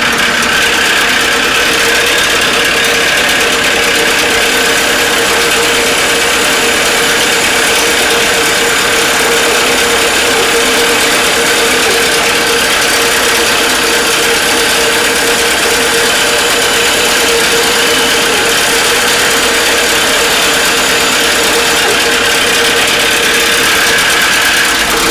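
Bandsaw running with a steady, loud drone while it cuts out a wooden cabinet pull.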